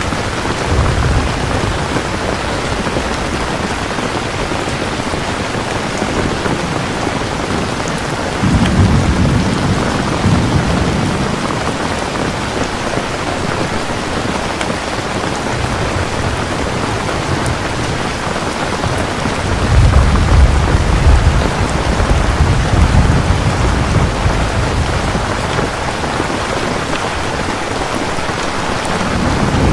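Steady heavy rain falling, with rolls of thunder rumbling low twice, about nine seconds in and again, longer and louder, from about twenty seconds in.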